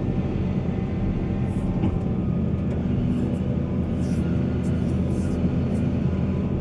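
Heavy diesel engine of earthmoving machinery running steadily under load, with short high hissy noises now and then.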